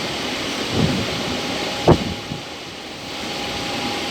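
Passenger train running steadily toward a station, a continuous rumble and rush of noise. A soft thump comes about a second in, and a single sharp knock, the loudest sound, about two seconds in.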